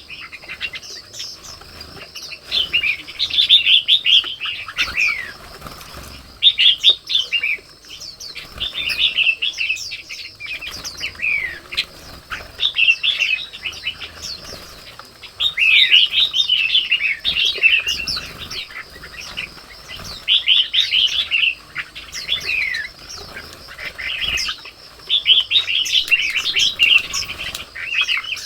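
Red-whiskered bulbuls calling, a run of quick bubbly chirping phrases every second or two, over a steady high-pitched drone.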